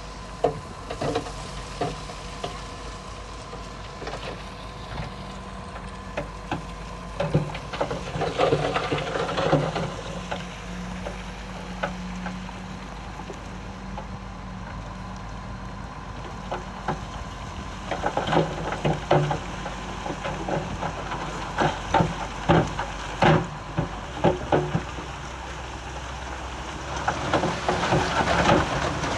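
Bulldozer's diesel engine running steadily while it pushes stone, with many sharp clanks and rattles of rock and steel over the hum; the clatter comes in clusters, heaviest in the second half.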